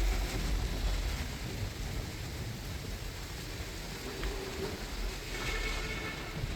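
Steady rain falling, over the deep low rumble of a moving bus.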